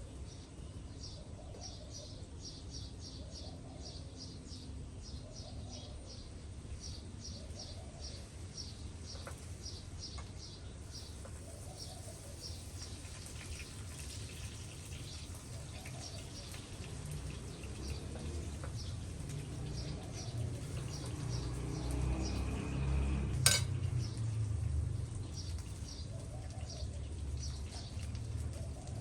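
Birdsong: a small bird repeats a short high chirp two or three times a second, over a lower call that recurs every second or so. In the second half, cookware is handled, with one sharp clink of dishes about two-thirds of the way through.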